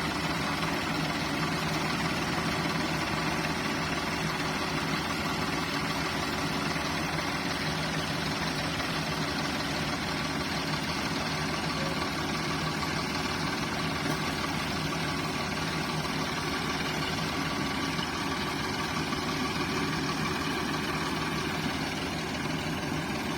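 Ford farm tractor engines running steadily under heavy load, straining to pull a stuck loaded trolley out of wet sand.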